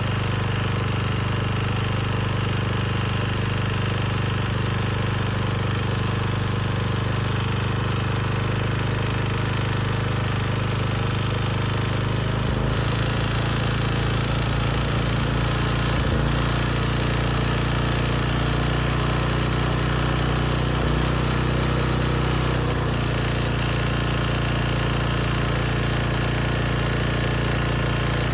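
Rebuilt 10 hp Briggs & Stratton single-cylinder engine running a portable generator under load, with a knock that the owner had blamed on two rattling sheet-metal tins but finds is not them. Its speed steps to a new pitch a few times.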